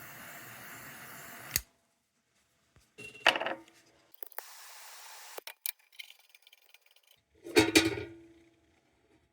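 A small gas torch hissing steadily for about a second and a half, lit and shut off with a click, as a lantern's tin is heated for soldering; then clunks and a loud knock of metal tools and the lantern being handled.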